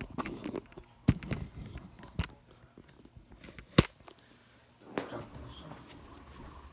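A few separate sharp knocks and clicks, the loudest about four seconds in, with a soft rustle about five seconds in and quiet room tone between.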